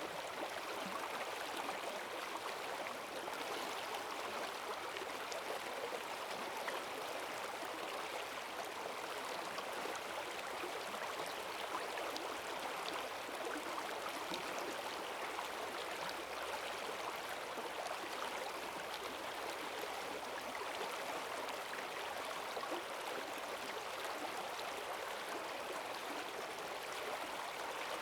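Rain-swollen forest stream rushing steadily, strong current gurgling and splashing over its bed.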